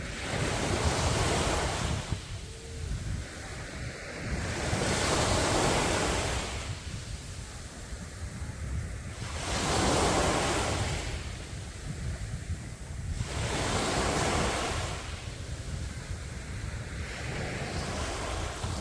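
Sea waves breaking on a beach: a wash of surf that swells and fades about every four seconds.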